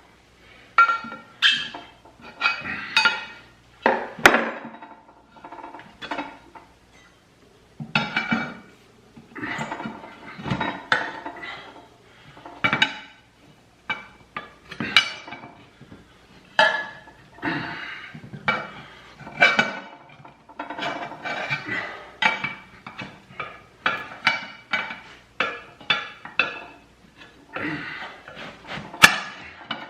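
Steel tire bar and manual tire changer clanking and scraping against a small wheel rim in many irregular strokes, with short metallic rings, as a garden tractor tire is levered onto the rim.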